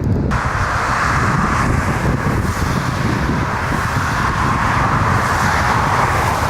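Jet airliner engines running with a steady roar, and wind buffeting the microphone. The roar starts suddenly just after the start.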